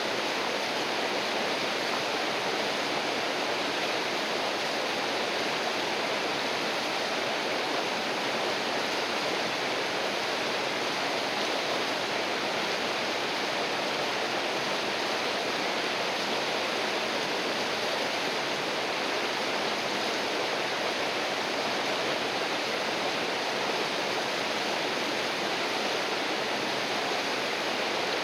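River water rushing steadily over rocks, a constant even rush with no changes.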